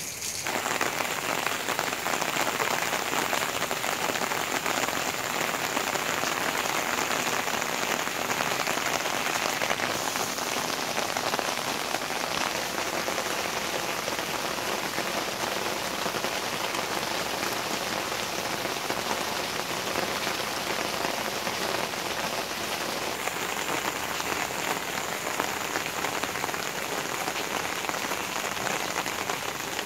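Steady rain falling, an even hiss of many drops striking leaves and surfaces, growing louder about half a second in and then holding steady.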